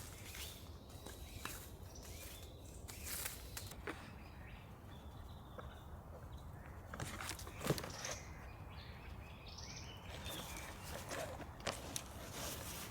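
Footsteps and scattered rustling and handling noises, with a few faint bird chirps about two thirds of the way through.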